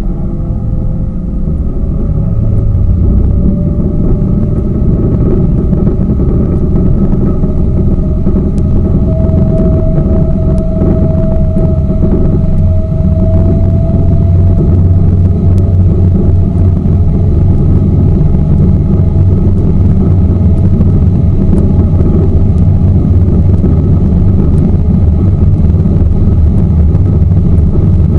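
Tour boat's motor running under way, with a heavy low rumble. A faint engine tone climbs slowly in pitch over the first dozen seconds, then holds steady.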